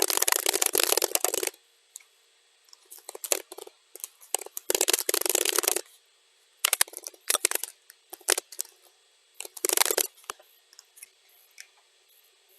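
Computer keyboard typing, sped up to double speed: a dense run of rapid key clicks, then shorter runs of clicks broken by short pauses, thinning to a few faint clicks near the end.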